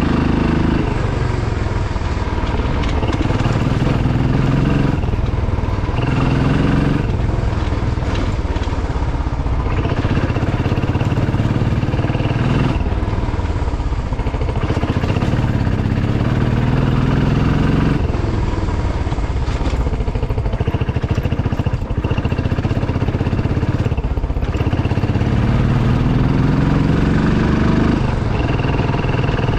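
Motorcycle engine running under way, its pitch climbing steadily and then dropping back several times as it accelerates and changes gear, with a constant rough rumble of the ride.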